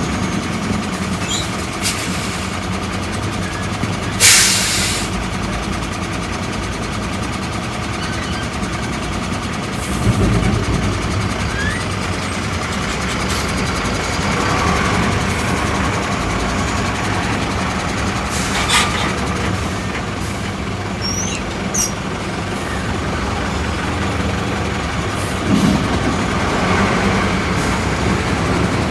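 Steady engine and traffic noise of vehicles queued at a highway toll plaza, with a short loud hiss about four seconds in, typical of a truck's air brakes releasing.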